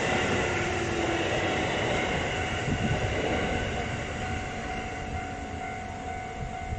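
Electric commuter train running past a level crossing, its rolling noise slowly fading with a steady whine held over it.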